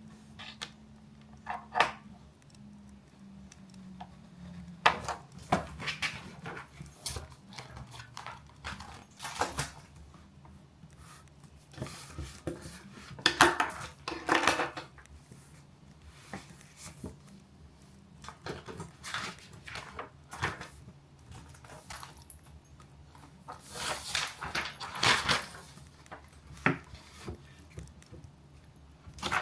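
Irregular small clicks, taps and rustling of pen, paper and stationery being handled at a desk while studying, with a couple of longer rustling stretches, over a faint steady low hum.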